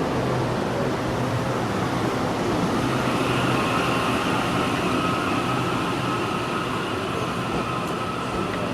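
Taiwan Railway electric train running past on the tracks, a steady loud rumble and rush of wheels and air, with a thin steady high whine joining about three seconds in.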